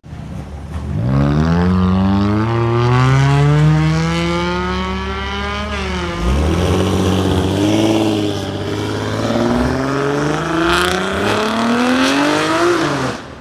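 Car engine revving hard, its pitch climbing for a few seconds, dropping sharply about six seconds in, then climbing again until it cuts off abruptly.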